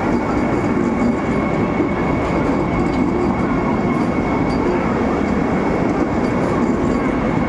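Train running along the track: a steady rumble of wheels on rails with a thin, high, steady whine over it.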